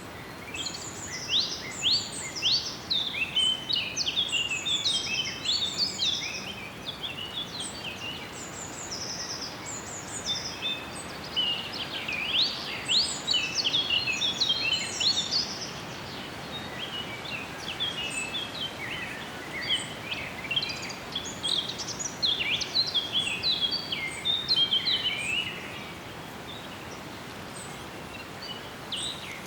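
Several songbirds singing and chirping at once, quick overlapping trills and notes, over a steady background hiss. The song thins out to a few scattered calls near the end.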